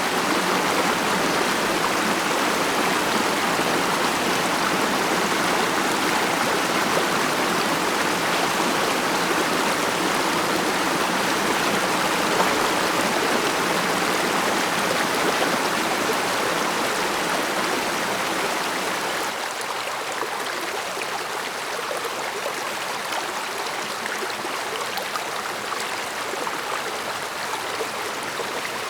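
A stream flowing: a steady, even rush of running water. About two-thirds of the way in it turns slightly quieter and thinner, losing some of its deeper rumble.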